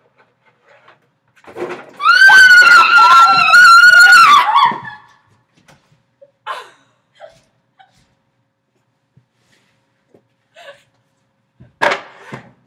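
A woman screaming in fright: one long, high, wavering shriek starting about two seconds in and lasting nearly three seconds, then faint knocks and shuffling.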